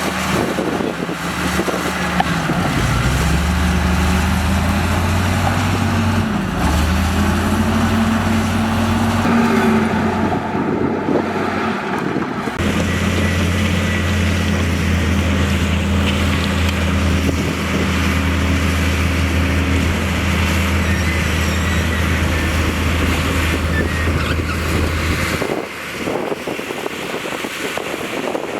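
Diesel engine of a heavy construction machine working. Its note dips and recovers a couple of times in the first several seconds, then holds steady. The deep engine note drops away near the end.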